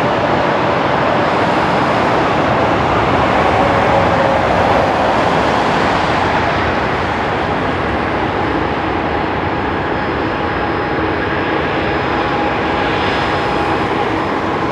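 A Boeing 737-800's CFM56-7B jet engines running loud and steady, a dense noise with a faint whine. It swells to a peak about four seconds in, then eases slightly.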